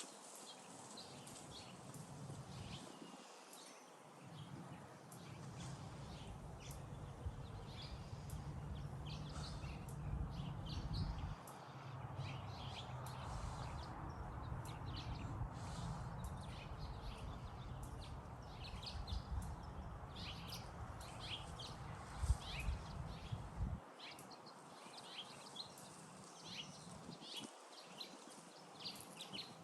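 Birds chirping repeatedly in the background, with a low rumble that comes in after a few seconds and cuts off suddenly near the end.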